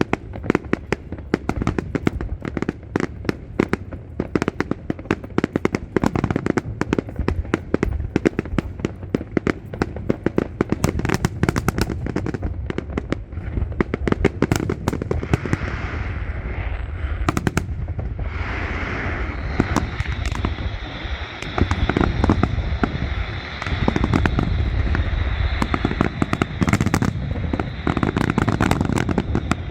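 Fireworks display: a rapid, continuous barrage of crackling and banging shell bursts. From about halfway in, a denser sizzling crackle builds up beneath the bangs.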